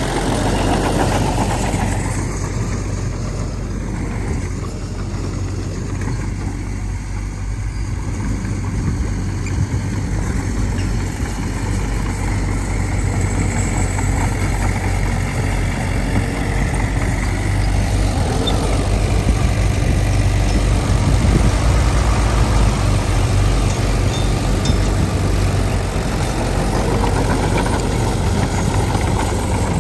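Diesel engine of earthmoving machinery (a dump truck or mini bulldozer) running steadily, growing louder and busier a little past the halfway point.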